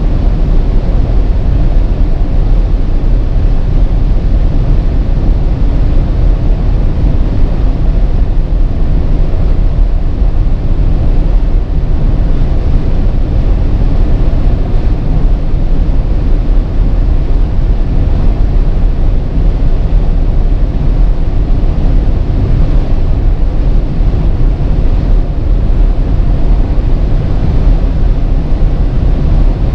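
2019 Audi Q8 50 TDI with its 3.0-litre diesel driving steadily at speed: a loud, even rush of engine, tyre and wind noise that holds unchanged throughout, with no rising or falling engine note.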